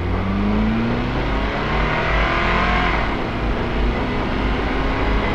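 Subaru WRX's turbocharged flat-four engine accelerating hard from a standing start, its pitch climbing, dropping at a gear change about three seconds in, then climbing again.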